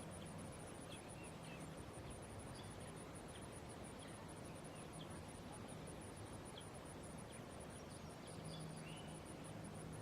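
An insect, cricket-like, calling with a steady train of very high-pitched pulses, about five a second, over a faint background hiss.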